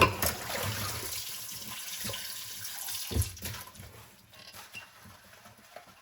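Dishes being hand-washed at a sink: a sharp clatter of a dish right at the start, then tap water running with light clinking, another knock about three seconds in, and only faint scattered clinks once the water goes quiet shortly after.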